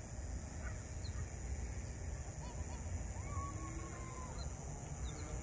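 Faint calls of a flock of birds flying over: a few short calls, then a longer call about three seconds in, over a steady low rumble.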